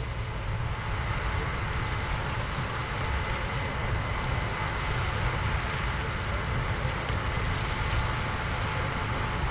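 Combine harvester running steadily while harvesting corn: a low engine rumble under a broad mechanical whir, with a faint steady whine.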